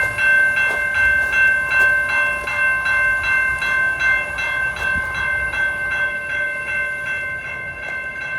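Railroad crossing warning bell ringing over and over at an even pace, each strike renewing a steady ringing tone. It is sounding because the crossing circuit has malfunctioned and the signals are activated with no train approaching.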